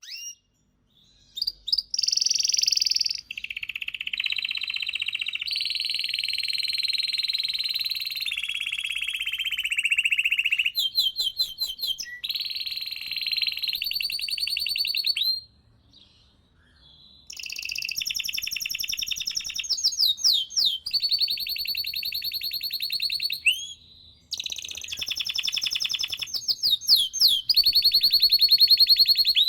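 Canary singing: long rolling trills and runs of rapid, repeated sweeping notes, high in pitch, in phrases broken by a pause of about two seconds halfway through and a shorter one later.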